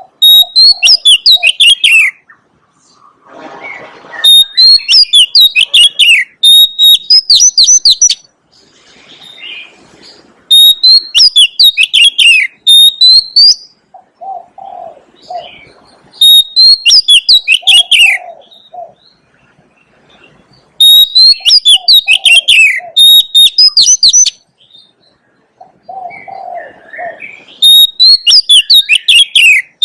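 Oriental magpie-robin singing: loud phrases of clear whistles and rapid rising and falling notes, repeated every few seconds with short pauses between. Softer low cooing calls sound in several of the gaps.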